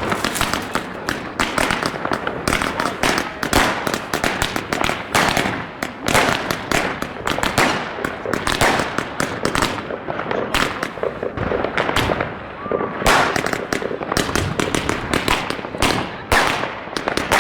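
Fireworks going off in quick succession: a dense, continuous run of bangs and crackles.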